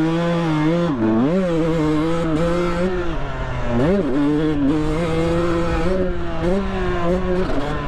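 Dirt bike engine heard on board while riding, with wind rush. The revs drop and climb sharply about a second in and again near four seconds, holding steady in between.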